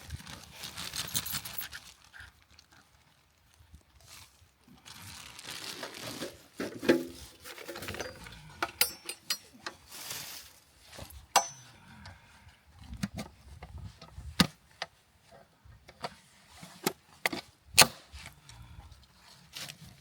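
Handling noises from a geocache being packed up and put away: rustling, then a string of scattered sharp clicks and knocks as its contents and container are handled.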